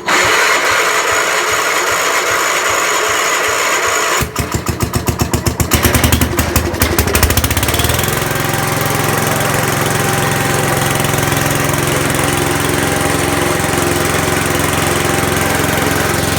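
Gravely C10A tractor's engine on a cold start: cranking with a steady whir, catching about four seconds in and sputtering unevenly, then settling into steady running for the rest of the time.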